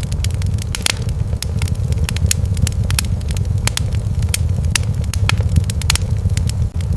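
Wood fire in a fireplace crackling, with frequent irregular sharp snaps over a steady low rumble.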